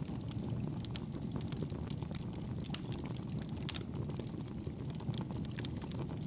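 Wood fire in a fireplace crackling: a steady low rush of flames with frequent small, sharp pops and snaps scattered irregularly throughout.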